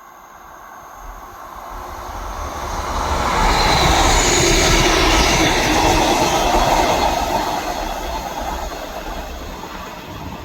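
A train passing on the line, its rumble and wheel-on-rail noise building, peaking about four to seven seconds in, then fading away.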